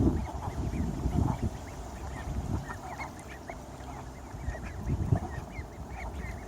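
Many short bird calls, quick and repeated, over a low rumbling background.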